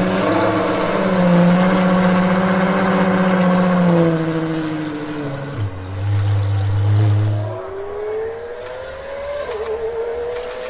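De Tomaso P72's supercharged V8 engine revving at low speed, dropping to a low steady note, then accelerating hard with a long rising pitch, a short drop at an upshift about nine and a half seconds in, and climbing again.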